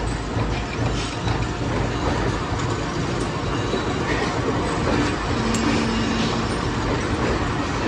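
Steady clatter and rumble of metalworking machinery, with a short steady hum a little past halfway.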